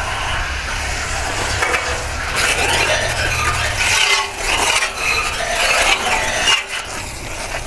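Garden hose spray hitting the coil fins of a central air-conditioner condensing unit, an uneven hissing spatter. A low steady hum underneath stops about halfway through.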